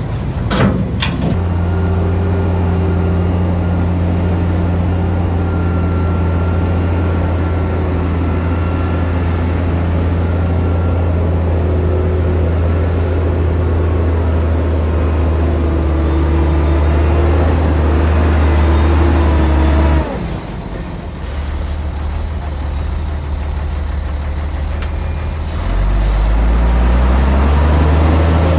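Heavy diesel engine of earthmoving machinery running hard at a steady pitch, dropping back suddenly about two-thirds of the way through, then revving up again with rising pitch near the end.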